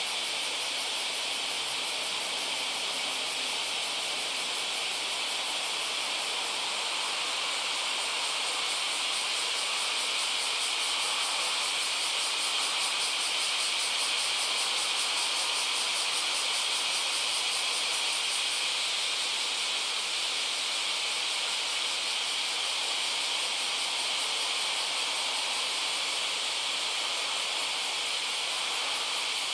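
A dense, steady chorus of insects trilling, high-pitched and unbroken. A faster pulsing trill stands out through the middle part.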